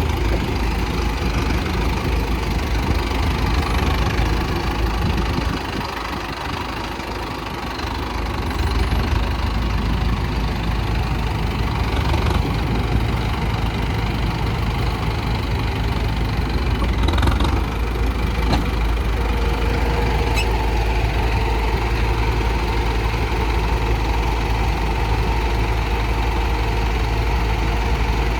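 Diesel engine of heavy earthmoving machinery running steadily, dipping briefly about six seconds in, with a few faint clinks.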